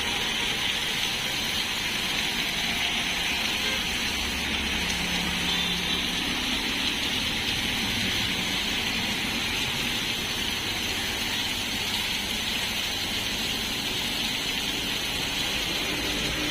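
Heavy rain falling steadily, a dense even hiss, with a low rumble for a few seconds in the middle.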